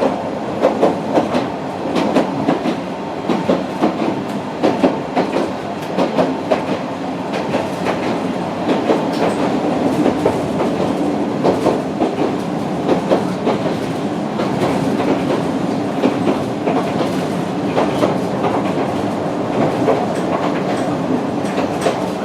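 Sangi Railway Hokusei Line narrow-gauge train running, heard from inside the passenger car: a steady rumble with frequent uneven clacks of the wheels over rail joints.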